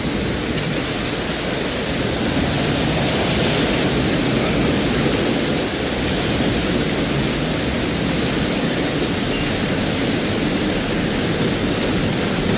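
Storm noise: heavy rain and wind making a steady, even rush.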